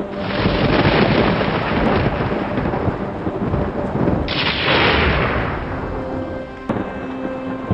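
Thunder rumbling over rain, with one loud roll at the start and a second about four seconds in that slowly dies away. Soft sustained music tones run underneath.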